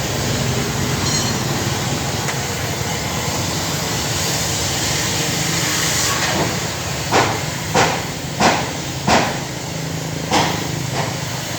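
A steady hissing noise, then about halfway through a series of sharp hammer strikes, roughly one every two-thirds of a second.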